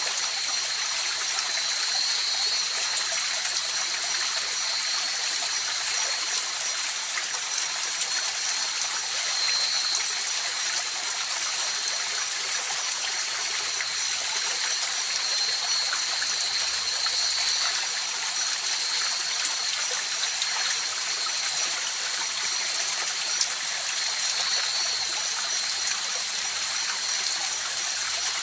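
River water flowing in a steady, even rush with trickling, and a thin high-pitched tone above it that swells and fades every few seconds.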